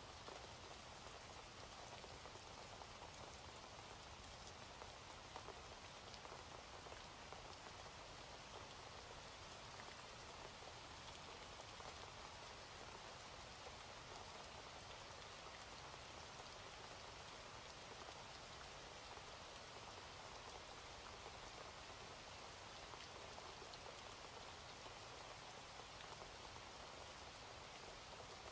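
Faint, steady rain, an even continuous wash with no single drops or other events standing out.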